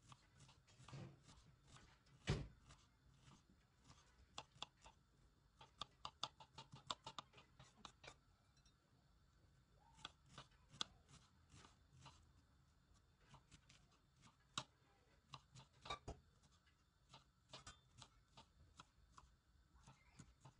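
Light, irregular clicks and taps of food being handled and prepared by hand, some coming in quick runs, with one louder knock about two seconds in.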